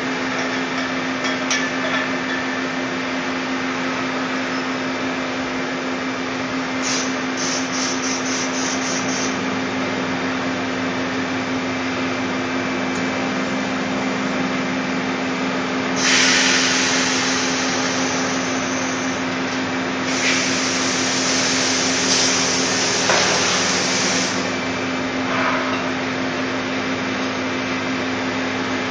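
Steady machine hum of a Puma 350 CNC lathe, a constant low tone over mechanical noise. A quick run of short ticks comes about a quarter of the way in. Two hissing bursts of a few seconds each come past the middle.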